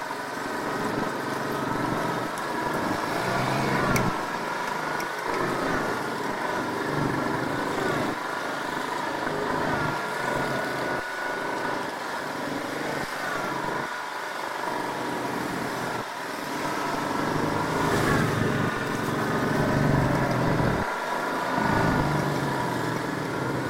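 Small off-road vehicle engine running, its revs repeatedly rising and falling.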